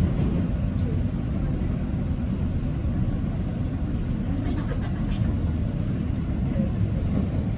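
Toronto subway train running between stations, heard from inside the car: a steady low rumble of wheels and motors on the track.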